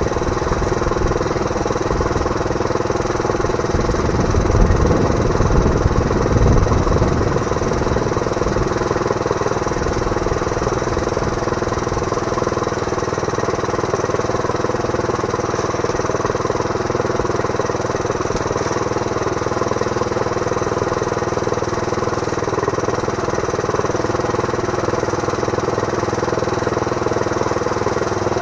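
Small Briggs & Stratton engine running steadily, driving a homemade bandsaw through a right-angle gearbox and belts and pulleys. There is heavier rumbling with a few louder bumps between about four and seven seconds in.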